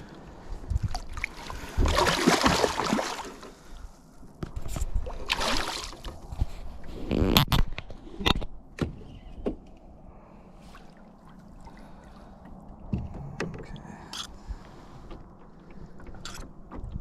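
Water splashing in two loud rushes, followed by a few sharp knocks against a small boat's hull, as a hooked pike minnow is brought in and handled.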